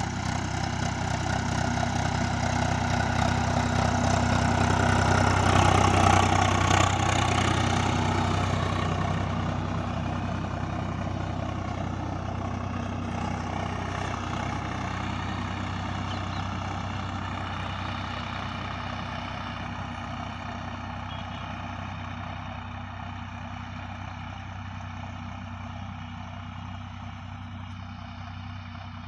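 Swaraj 744 XT tractor's diesel engine running steadily, pulling a 12-foot suhaga leveller. It grows louder to a peak about six seconds in, then slowly fades.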